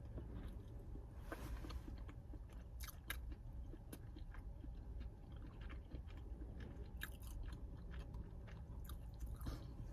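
A person chewing food close to the microphone, with faint crunches and mouth clicks, over a low steady hum.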